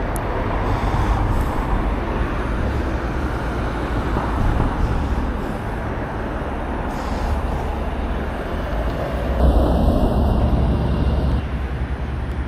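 Continuous road traffic noise with a deep rumble, swelling several times as vehicles pass.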